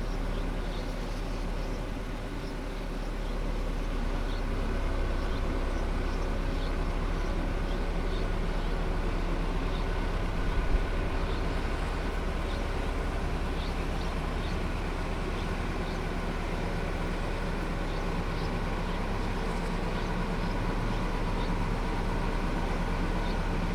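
A heavy machine's engine running steadily, with faint ticks over it and one short knock about eleven seconds in.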